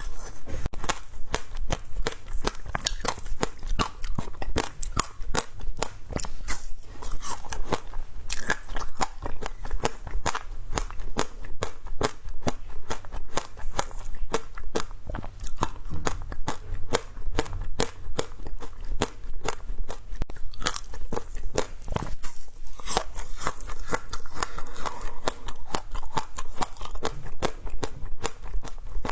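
Close-up crunching and chewing of frozen shaved ice, a fast, dense crackle of many small crunches.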